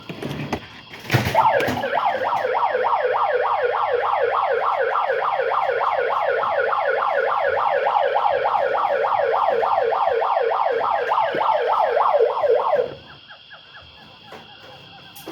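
Electronic siren-like yelp: a rapid, regular series of falling pitched sweeps, several a second, that starts about a second in, runs for roughly eleven seconds and cuts off suddenly.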